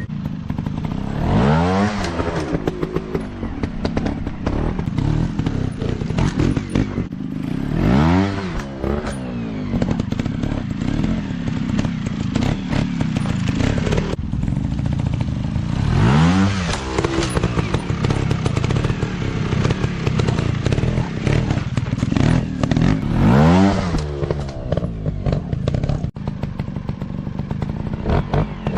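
Dirt bike engine running, revved up sharply and let fall back about five times, every six to eight seconds.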